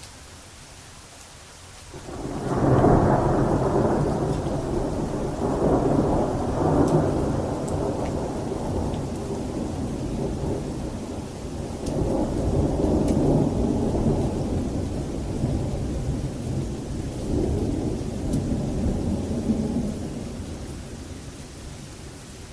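A long roll of thunder breaks in about two seconds in and rumbles on in several surges before fading near the end, over steady rain.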